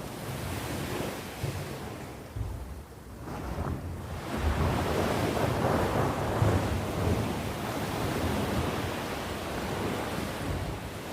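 Sea waves on the shore: a lull about three seconds in, then a wave surges in and washes up. Wind buffets the microphone in low gusts.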